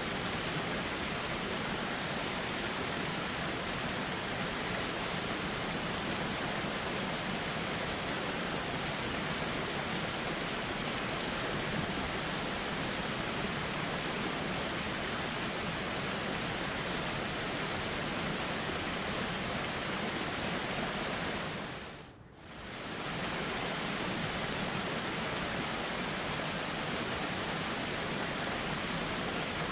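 Steady flowing river water, an even rushing noise that briefly fades out and comes back about three quarters of the way through.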